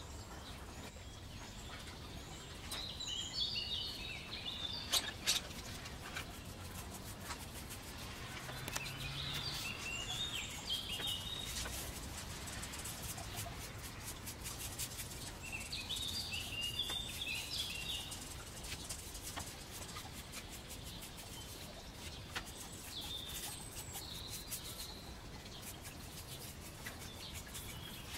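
A songbird sings short twittering phrases of high chirps, one burst about every six or seven seconds, over steady outdoor background noise. A few soft clicks are scattered between them.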